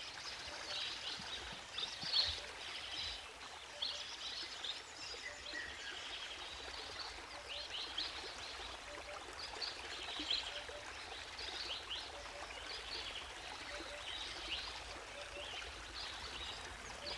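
Wetland ambience: many short, high bird chirps scattered throughout over a soft, steady wash of water, with a soft low thump about two seconds in.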